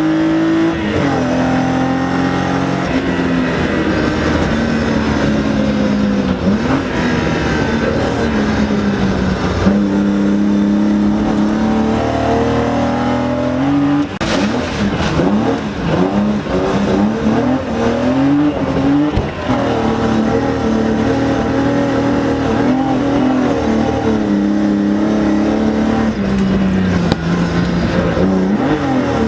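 BMW E30 rally car engine heard from inside the cabin under hard driving, its pitch climbing and dropping with gear changes. About halfway through, the engine note swings up and down rapidly and irregularly for a few seconds before settling back into steady pulls.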